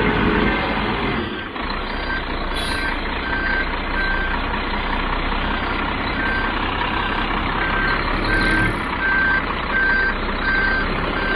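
A concrete mixer truck's diesel engine running while it reverses, its backup alarm beeping steadily at about two beeps a second. There is one sharp clack a few seconds in.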